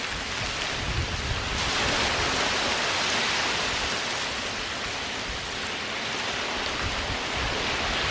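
Waves washing onto a sandy beach: a wave comes in with a rising hiss about a second and a half in, then draws back and fades, and another builds near the end.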